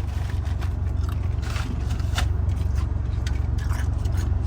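Steady low road and engine rumble inside a moving car's cabin, with scattered short clicks and crackles over it.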